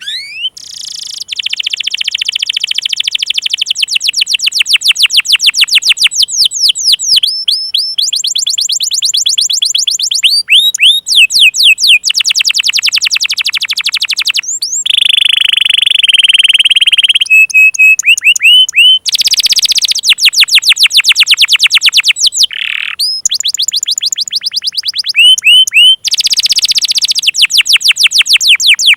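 Domestic canary singing a long, loud song made of fast series of repeated notes and trills, each series switching to a new note type every second or two with brief breaks. It is a canary lure song of the kind played to coax silent canaries and young birds into singing.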